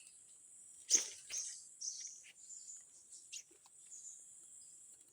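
A steady high insect drone, with a sharp rustling burst about a second in and a few short, high chirps from small birds.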